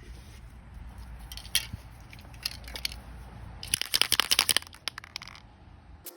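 Spray paint can being handled, with scattered clinks and then a run of fast rattling clicks for about a second and a half midway, like the mixing ball being shaken inside the can, over a low steady hum.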